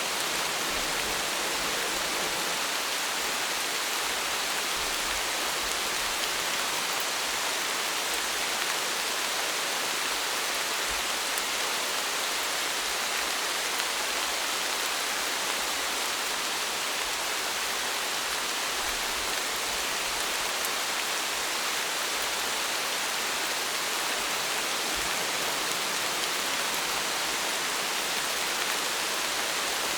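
Steady rain falling, a dense even hiss of raindrops with no let-up or change.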